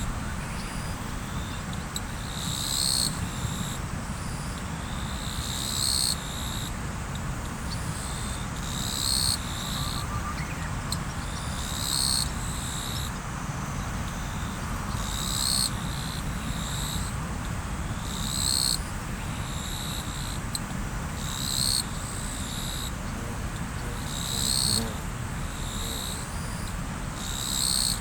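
Steady rush of river water, with a short high-pitched call repeating about every three seconds, some ten times.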